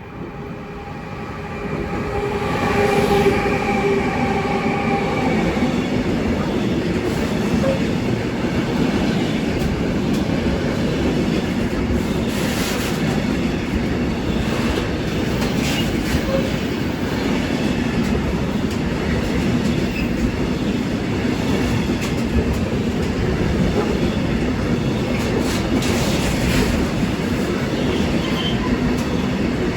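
Electric train passing close by: it swells up over the first few seconds with a few steady tones from the locomotive, then a long, steady rumble of wheels on rail with clatter and brief squeals as the wagons run past.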